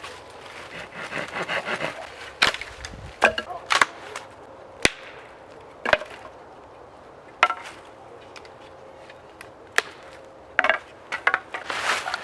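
Dry wood cracking and snapping: a dozen or so sharp, irregularly spaced cracks with a few short rustling scrapes between them.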